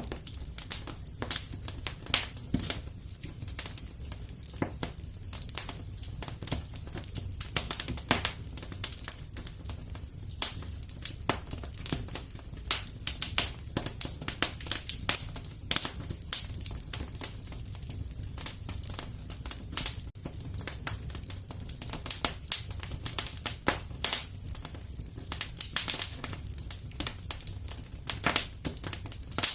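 Wood fire crackling in a fireplace: a dense run of irregular pops and snaps over a low steady rumble.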